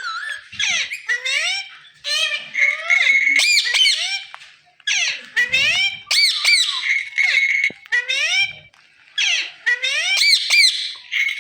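Indian ringneck parakeet calling: three bouts of rapid, shrill calls rising and falling in pitch, with short pauses about four and a half and eight and a half seconds in.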